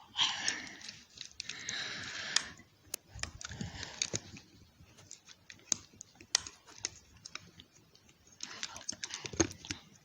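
Small, irregular clicks and taps of plastic toy-train parts being handled and pried apart, with soft whispering at the start and again near the end.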